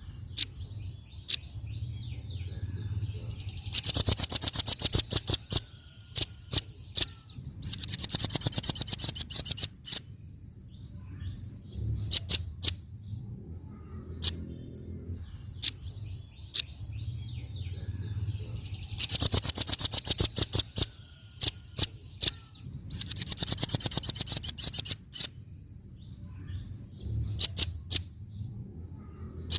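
Velvet-fronted nuthatch (rambatan paruh merah) calling: sharp single high chips between fast, rattling trills of about two seconds each, four trills in all. The sequence repeats about every fifteen seconds as a loop.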